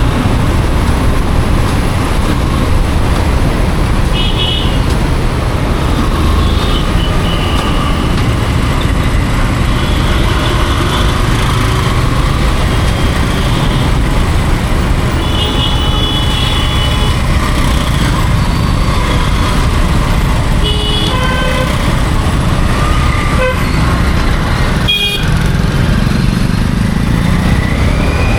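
Steady road and wind rumble from a motorcycle riding through city traffic, with other vehicles' horns honking in short toots several times.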